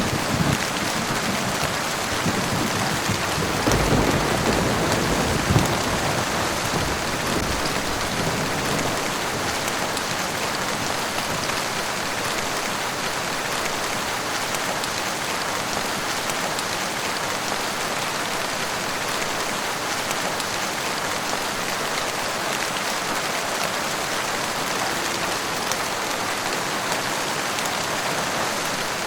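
Steady rain falling and pattering on surfaces. A low rumble of thunder dies away in the first few seconds.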